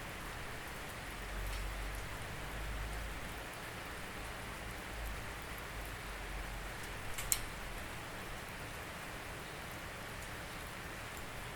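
Steady rainfall, an even hiss of rain on a surface, with a few sharp drips or ticks, the loudest a little past halfway.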